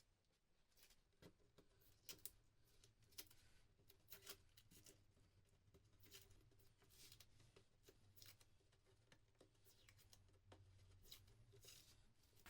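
Faint, irregular light clicks and taps of small handling, a few every second, over a low steady hum.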